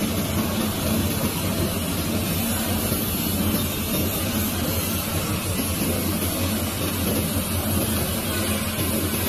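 Spiral blade forming machine running steadily: a constant motor hum with an even mechanical noise over it.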